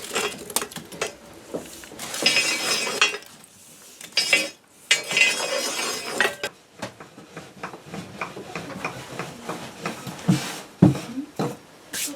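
Kitchen clatter: dishes and cutlery clinking and knocking, with two longer noisy stretches of handling in between.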